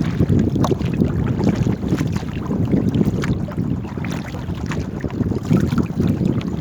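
Wind rumbling on the microphone during a small paddled boat outing, with scattered small ticks and splashes over it.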